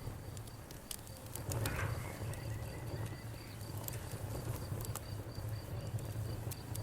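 Crackling bonfire, with scattered sharp pops and snaps over a steady low rumble, a cluster of pops coming about one to two seconds in. Crickets chirp behind it in an even, rapid high-pitched series.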